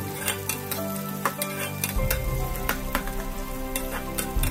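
Sliced onions and curry leaves sizzling in hot oil in a steel kadai while a perforated spatula stirs them, clicking and scraping against the pan many times.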